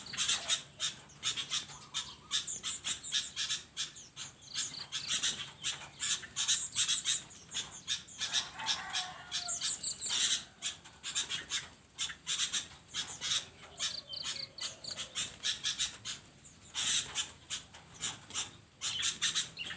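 A flock of small caged aviary birds chirping and squawking continuously in many rapid, overlapping high calls, with one lower call about eight seconds in.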